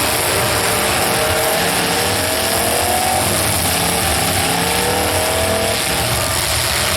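Demolition derby cars' engines running hard amid loud, continuous noise, with several engine pitches rising together from about a second and a half in to near the end as the cars accelerate.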